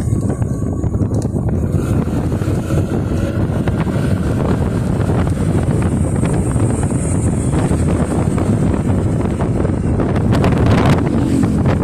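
Wind rushing over the microphone of a moving motorcycle, a loud, steady low rumble with a few brief knocks near the end.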